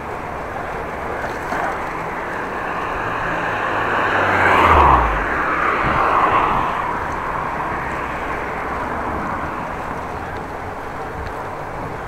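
Steady rushing noise of riding a bicycle on the road, with a motor vehicle passing by about four to five seconds in, its low engine note dropping in pitch as it goes past.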